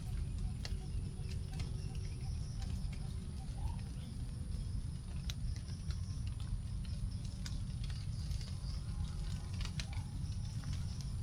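Scattered raindrops dripping from the canopy onto leaves after rain, as separate sharp taps every second or two over a steady low rumble, with a short rising bird note about four seconds in.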